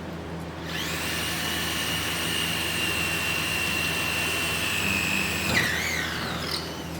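Aegon AD602 230 W corded electric drill spinning up about a second in, then running with a steady high whine. Near the end the trigger is released and the motor winds down, the whine falling in pitch.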